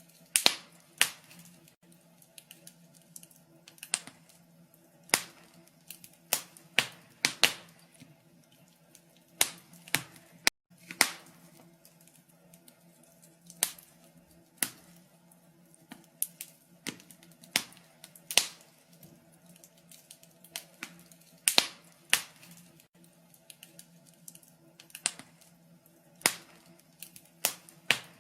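Wood fire crackling in a fireplace: irregular sharp pops and snaps, some single and some in quick clusters of two or three, over a faint steady hum.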